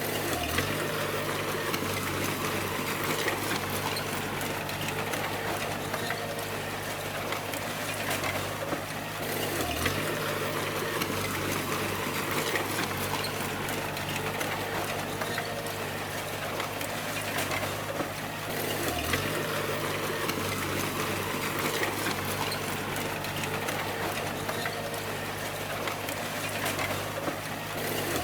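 D20 bulldozer's diesel engine running under work, with a dense rough clatter over a steady low hum. The engine note briefly drops and recovers about every nine seconds.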